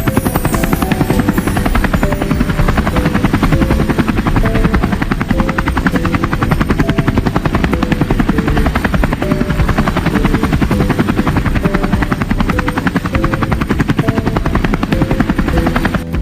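Helicopter rotor running steadily, its blades making a rapid, even chopping beat.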